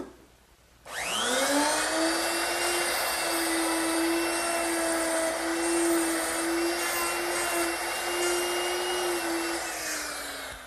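Electric router fitted with a 1/2-inch mortising bit, cutting a hinge mortise: its motor spins up with a rising whine about a second in, runs at a steady high speed, and winds down near the end.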